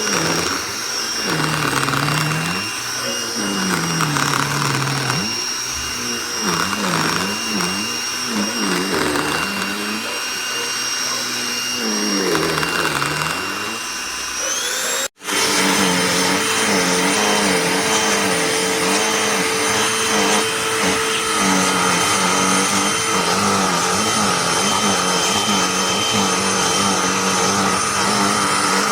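Cordless handheld vacuum running, its motor tone wavering up and down as it is worked over a surface. About halfway through, the sound cuts out for an instant and a steadier vacuum hum takes over.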